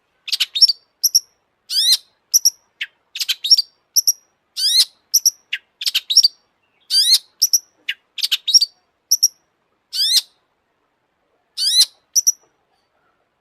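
Long-tailed shrike (cendet) singing: short, sharp, rising notes in quick clusters of two or three, with brief gaps between them. The song stops about a second before the end.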